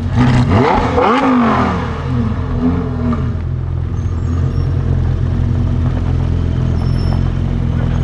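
Lamborghini Huracan STO's naturally aspirated V10 engine rising and falling in pitch in a brief rev about a second in, then running at a steady, low-pitched idle.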